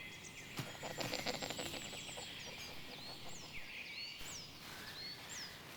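Faint woodland sounds: a quick patter of rustling in leaf litter, then a series of high, short chirps of small forest birds, each sliding downward in pitch.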